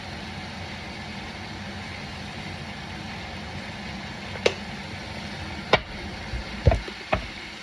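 Kitchen utensils and seasoning containers being handled: a few sharp clicks and knocks in the second half, with a dull thump or two near the end, over a steady low background noise.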